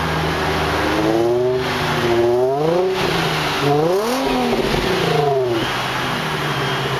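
2003 Infiniti G35 Coupe's 3.5-liter V6 revved twice from idle. Each rev climbs and falls back, the first peaking about three seconds in and the second about four seconds in, and the engine then settles back to a steady idle.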